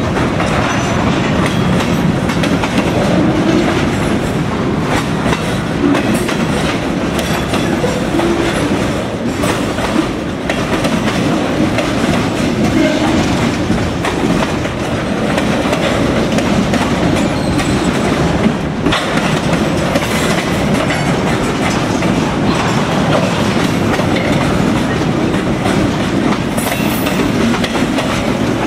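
Freight cars of a mixed freight train rolling steadily past: a continuous rumble of steel wheels on the rails, with scattered clicks and knocks from the wheels and couplers.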